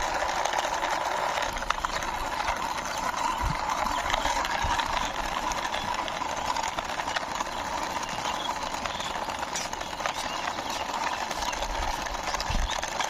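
Toy police car pushed along by hand, its small plastic wheels rolling with a steady whirring.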